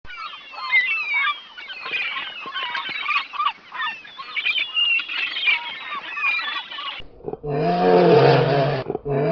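A flock of birds calling over one another in a dense chorus of honking calls. About seven seconds in, this gives way to a large animal's deep, loud roar, which comes twice.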